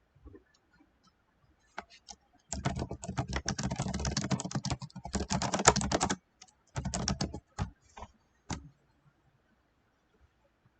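Typing on a computer keyboard: a quick run of keystrokes starting about two seconds in, a shorter burst after a brief pause, then a few single key presses.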